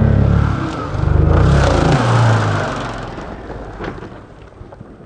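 Off-road motorcycle engine revving hard in two surges, the second starting about a second in, then fading away over the last couple of seconds.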